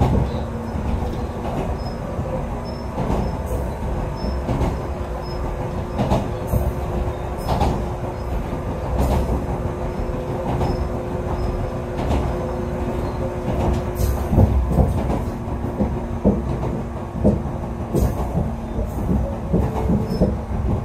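Echizen Railway electric railcar running along the Katsuyama Eiheiji Line, heard from inside the car. There is a steady rumble with a constant motor hum, and irregular sharp clicks and knocks from the wheels on the track.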